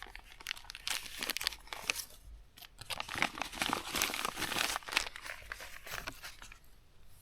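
Packaging crinkling and tearing as it is handled and opened up close, in two spells of irregular crackling that thin out near the end.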